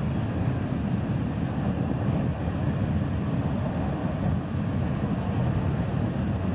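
Steady low rumble of a CN freight train passing, mixed with wind buffeting the microphone.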